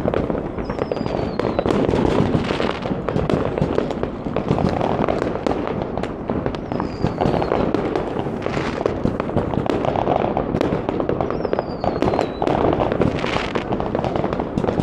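Many fireworks and firecrackers going off at once: a dense, continuous crackle of bangs and pops. A short falling whistle cuts through three times.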